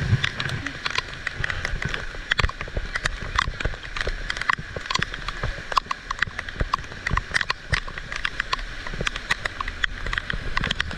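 Heavy rain falling, with raindrops striking close to the microphone as many irregular sharp taps over a steady hiss and low rumble.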